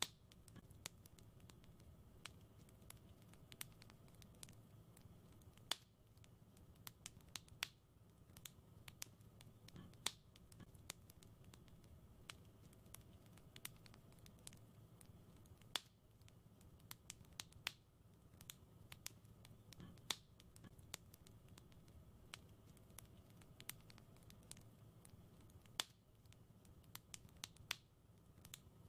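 Wood fire in a fireplace crackling: a steady scatter of small sharp snaps and ticks, with a few louder pops every several seconds, over a faint low rumble.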